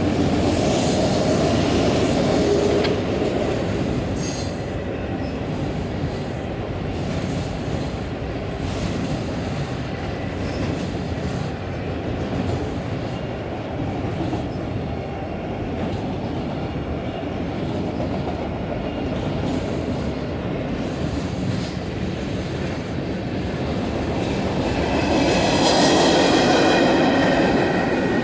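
Long freight train of loaded autorack cars rolling past with a steady rumble and clatter of wheels on rail. Near the end it gets louder and high-pitched wheel squeal rings out over the rumble.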